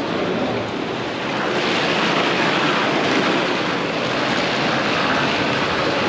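A steady rushing noise that grows louder about a second and a half in.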